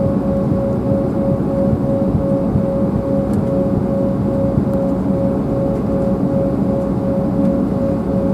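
Embraer 195's General Electric CF34 turbofan engines heard from inside the passenger cabin: a steady low rushing drone with a pulsing mid-pitched hum over it.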